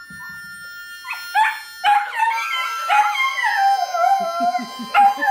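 Dog howling: a few short yips about a second in, then long howls that slide downward in pitch.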